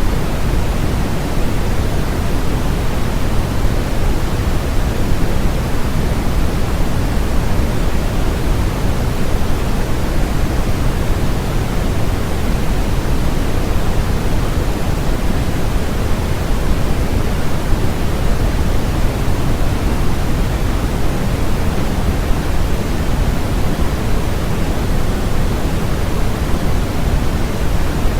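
Steady, unchanging synthetic noise, strongest in the low end and thinning toward the top, closer to pink than to pure white noise.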